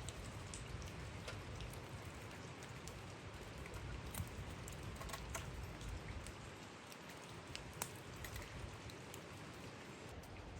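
Steady rain falling, with scattered drops ticking sharply on nearby surfaces, two of them louder about four and eight seconds in.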